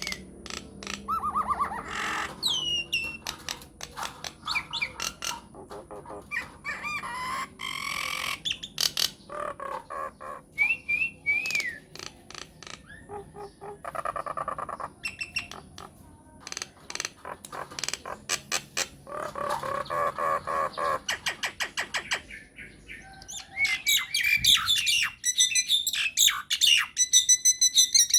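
A myna calling in a long varied string: short gliding whistles, squawks and runs of rapid clicking chatter. It gets loudest and densest near the end.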